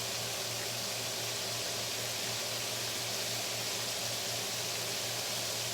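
Breaded turkey chops frying in a pan of deep oil, giving a steady, even sizzle with a low hum underneath.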